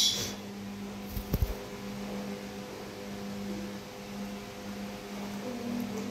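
Steady low mechanical hum, like a fan or appliance, with a few dull low thumps about a second in.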